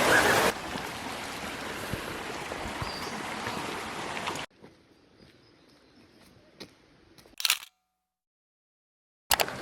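Steady rushing noise that cuts off abruptly after about four and a half seconds, leaving faint scattered clicks, a short sharp clatter of clicks about seven and a half seconds in, then dead silence.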